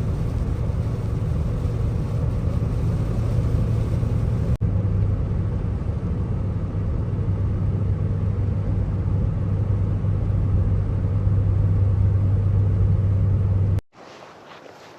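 Pickup truck driving, heard from inside the cab: a steady low drone of engine and road noise. Near the end it cuts off abruptly and a much quieter sound follows.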